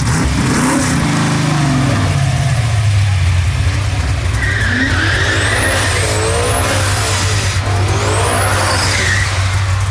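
Drag cars, a naturally aspirated small-block Ford V8 in a 1964 Falcon and a Mustang, run at full throttle away from the line, their engine note falling over the first couple of seconds before settling into a steady low drone. High squeals rise and fall a few times in the second half.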